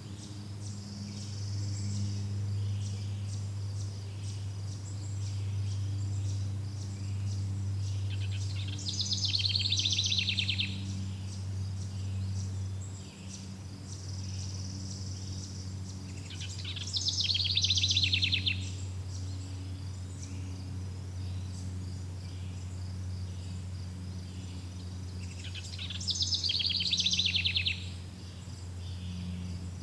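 Forest ambience: a bird's rapid trilled song phrase, about two seconds long, repeating three times at intervals of about eight to nine seconds, over a steady high chirring of insects and a low steady hum.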